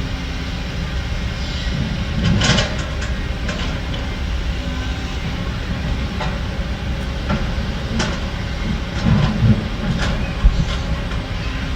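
Heavy diesel construction machinery running steadily, with a few sharp metallic clanks and knocks at irregular moments.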